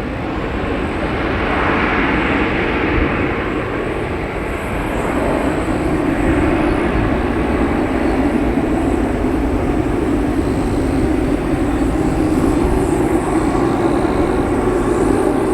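Embraer E170 regional jet's twin turbofans at takeoff power, a steady loud jet roar as it departs.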